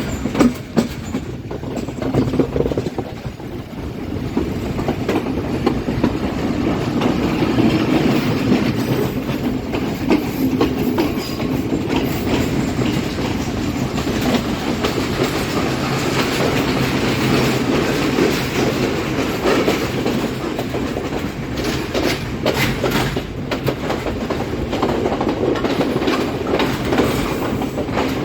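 Express train hauled by a Class M6 diesel locomotive running along the line, its wheels clattering over the rail joints with a steady rumble. The sound grows louder over the first few seconds.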